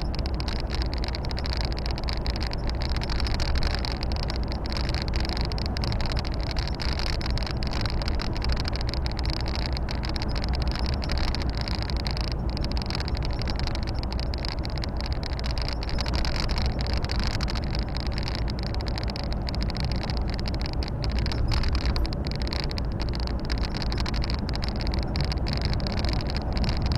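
Volvo FH 460 truck under way, its D13 six-cylinder diesel and the road noise giving a steady drone throughout.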